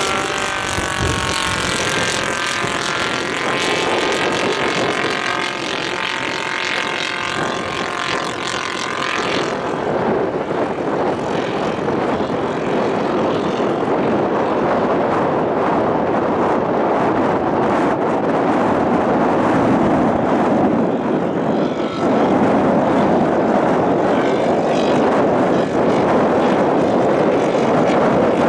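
Radio-controlled scale model aircraft flying with its propeller engine running. The engine note wavers in pitch for roughly the first nine seconds, then gives way to a steadier drone that grows slightly louder near the end.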